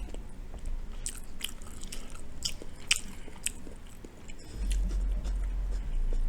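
Close-up chewing and biting of breaded General Tso's cauliflower, with irregular crisp crunches. A low rumble comes in about four and a half seconds in.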